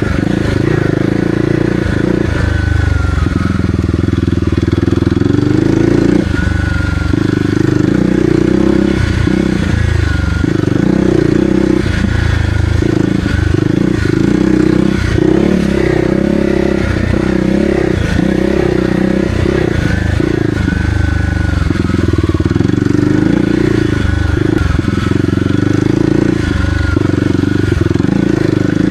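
Kawasaki KLX300R's single-cylinder four-stroke engine running while the dirt bike is ridden, the revs rising and falling continually with the throttle.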